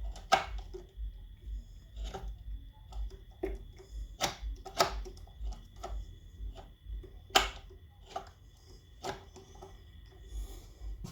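Scattered knocks and clicks from handling the outboard motor's parts, about a dozen, the loudest just after the start and about seven seconds in, with a faint steady high tone underneath.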